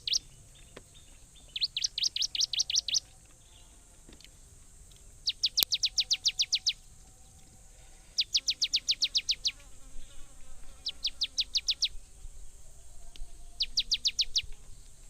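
A songbird repeating one phrase: a quick run of about ten sharp, high notes lasting about a second, sung five times with pauses of one to two seconds between. A faint, steady, high insect buzz runs underneath.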